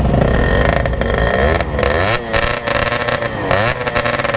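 Two-stroke motorcycle engine running: a steady low idle for the first second and a half, then revved up and down several times.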